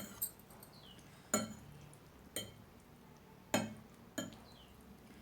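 A utensil clinking against a bowl five times, about a second apart, as instant noodles are mixed with their spice seasoning.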